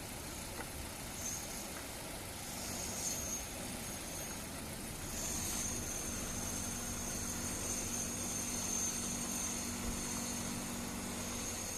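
A 2008 Hyundai Tucson's engine idling steadily. About five seconds in, a steady high-pitched whine and a low hum come in and then hold.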